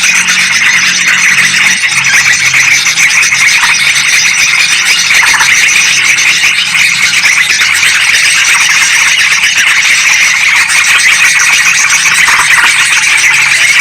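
Yellow-vented bulbuls and sooty-headed bulbuls calling together in a dense, unbroken, noisy chatter: a bird-lure recording.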